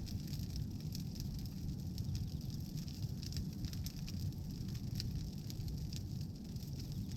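Bonfire of pruned branches burning, with a steady low rumble of flame and frequent sharp crackles and pops from the wood.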